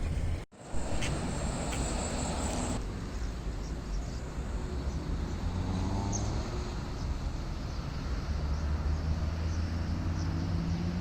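Steady low rumble of a travelling vehicle's interior, with faint voices in the background. The sound cuts out briefly about half a second in, and the first few seconds carry added hiss.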